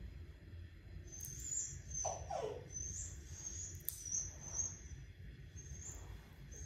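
Small birds chirping in a string of short high notes, with two quick falling lower calls about two seconds in, over a steady low background rumble.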